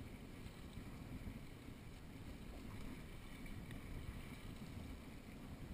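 Low, steady rush of wind and water noise aboard a small sailboat under way, with no distinct knocks or calls.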